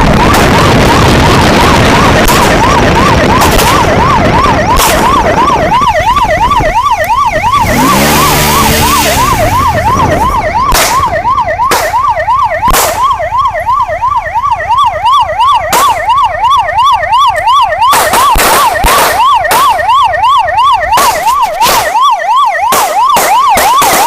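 Police car siren wailing in a fast up-and-down yelp over engine and road noise during a high-speed chase. From about eleven seconds in come sharp cracks of gunfire, a few spaced apart at first and then many in quick succession toward the end.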